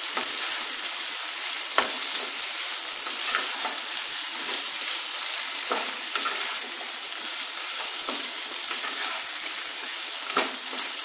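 Diced potatoes sizzling steadily as they fry in mustard oil in a non-stick pan, with a wooden spatula stirring them and clicking against the pan a few times.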